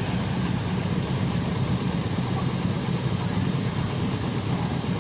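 Harley-Davidson police motorcycles idling together, a steady low engine sound.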